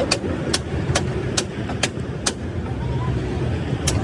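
Sharp, evenly spaced strikes, about two a second, with a pause of a second and a half after the middle before they start again, over a steady engine and traffic rumble.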